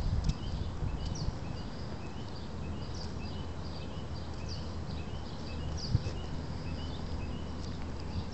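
Small birds chirping over and over, short high notes throughout, over a steady low rumble of wind and handling noise on a phone microphone. A few soft thumps, the loudest about six seconds in.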